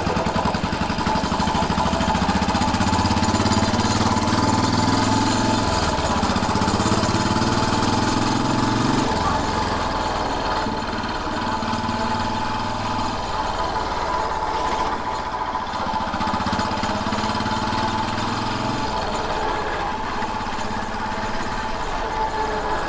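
Royal Enfield Bullet 500's single-cylinder engine running under way. Its pitch changes abruptly about six and nine seconds in, as if shifting gear, and it runs a little quieter after that.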